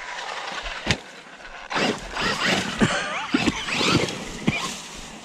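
Electric radio-controlled UTV (Losi RZR Pro R) driving on grass, its motor whine rising and falling with the throttle. There is a sharp knock about a second in.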